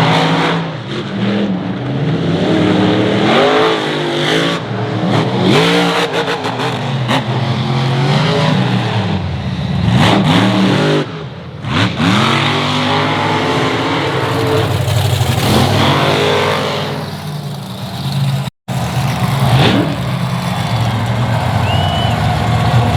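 Monster truck engines revving hard, their pitch climbing and falling again and again as the trucks drive the course.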